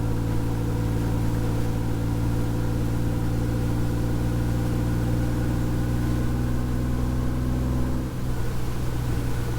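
2006 Honda Gold Wing GL1800's flat-six engine running at low road speed, its pitch easing down slightly, then changing abruptly about eight seconds in.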